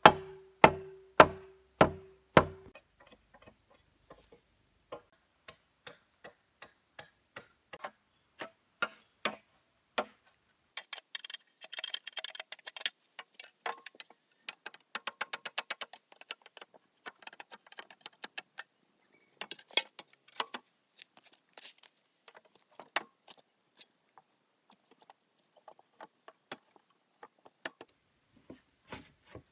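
Wood being struck with a tool: about six heavy, evenly spaced blows that ring, then lighter scattered taps and two quick runs of rapid clicks, as of hand work on timber.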